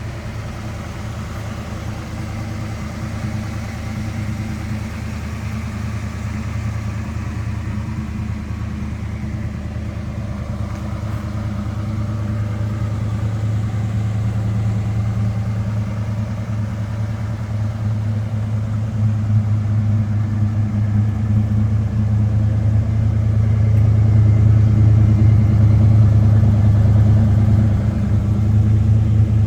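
A 1964 Ford Fairlane's 289 V8 with dual exhaust running at a steady idle, getting gradually louder.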